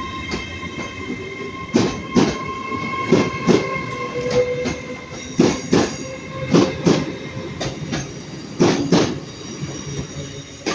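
Train wheels knocking over rail joints as a multi-coach train rolls slowly through the station. The knocks come in pairs, one axle after the other, about every one to two seconds, over a steady high whine.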